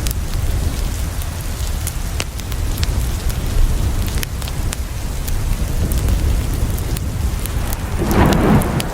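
Steady rain falling on a window over a low continuous rumble, with scattered sharp crackles from a wood fire. About eight seconds in, a louder rushing swell rises for under a second.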